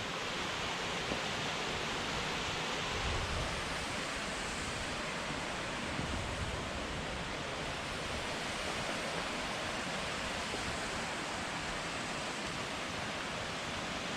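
Murhut Falls, a waterfall, pouring down in a steady, unbroken rush of falling water.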